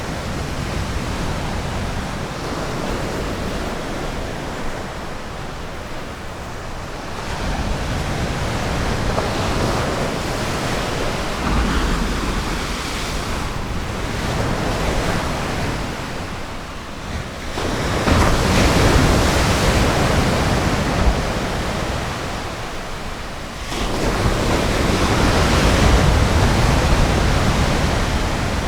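Ocean surf: waves breaking and washing in, in slow rising and falling surges of rushing noise. The biggest surge comes about two-thirds of the way through, and another builds near the end.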